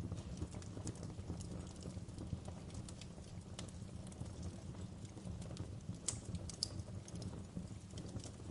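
Wood fire burning in a fireplace: a steady low rumble of the flames with irregular sharp crackles and pops, a few louder ones about six to seven seconds in.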